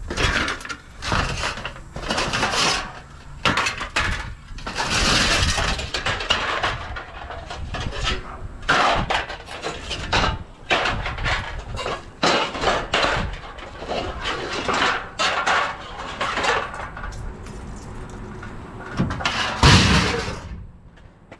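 Scrap and junk being rummaged through and moved about, with repeated irregular clanking and clattering. A heavier thump comes near the end.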